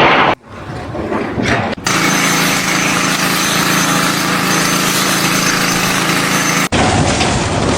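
A small engine running steadily. It comes in abruptly after a short rising noise and cuts off suddenly near the end.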